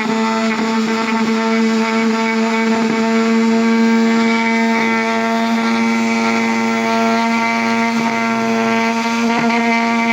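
Rotary tool with a burr running at a steady, unchanging pitch, grinding back the edges of soldering-iron-welded cracks in a plastic bumper, with occasional short scraping contacts.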